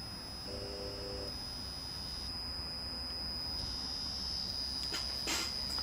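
Small three-phase electric motor run from a variable frequency drive, giving a steady high-pitched whine. Short low tones sound about half a second in, and there is a single click near the end.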